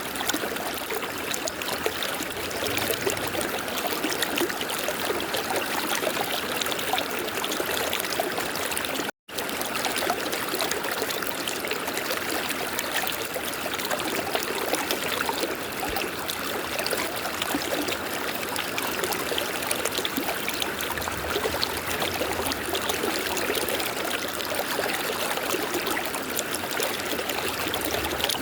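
River water running steadily over rocks, a continuous rushing and trickling, broken once by a split-second gap of silence about a third of the way through.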